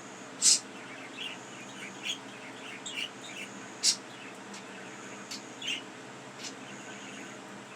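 Pet budgies chirping and tweeting in short, scattered calls, with a few sharper high tweets standing out, loudest about half a second and four seconds in.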